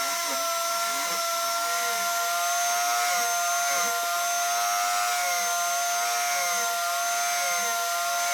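Electric power tool running steadily with a high motor whine that wavers slightly.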